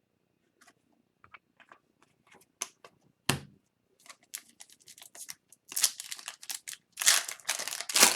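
Hockey trading cards being handled and sorted by hand: scattered clicks and card rustles, a sharp knock about three seconds in, and denser, louder rustling near the end.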